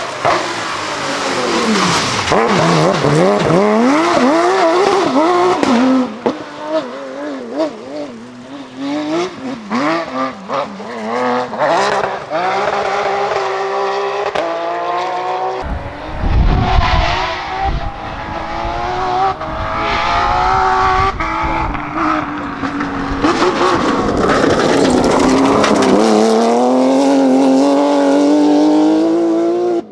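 Porsche 911 GT3 rally car's flat-six engine at racing speed, revving up and dropping back again and again through gear changes and lifts, with tyre noise. A deep rumble comes in for a second or two about 16 seconds in, and near the end the engine pulls in one long climbing rev.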